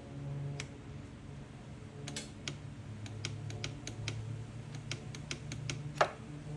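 Ratcheting wrench clicking as the motorcycle's oil drain plug is torqued down: a run of quick, irregular clicks, then one louder click near the end.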